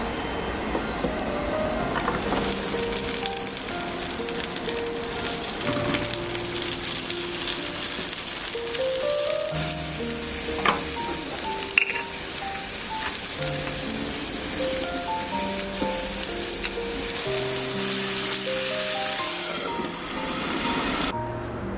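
Food frying in a hot pan: a steady sizzle that starts about two seconds in and cuts off sharply near the end, with a few small clicks in the middle.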